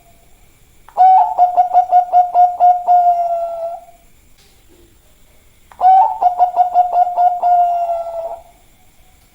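Zebra dove (perkutut, Bangkok song line) cooing twice, about a second in and again near the end. Each phrase is a quick run of low, pulsing coo notes, about five a second, that trails off into a held note.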